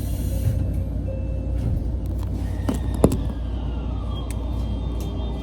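Inside a local train's cabin: a steady low rumble from the train, with two sharp knocks about three seconds in and a faint tone gliding downward.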